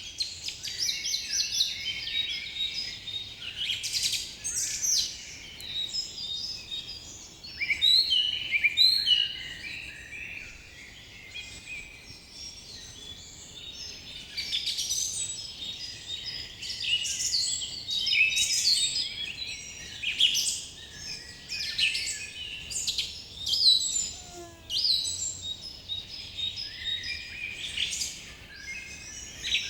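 A chorus of small songbirds chirping and twittering, with many quick, high-pitched calls overlapping and swelling and fading in loudness.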